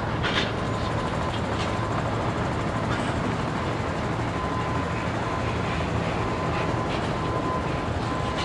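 Steady rumble of jet aircraft engines, with a faint whine that comes and goes.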